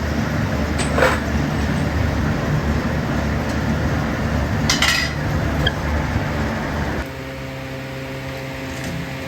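Metalworking machinery running in a workshop, with metal parts clanking against metal twice, about a second in and again near five seconds. About seven seconds in the noise drops to a quieter, steady machine hum.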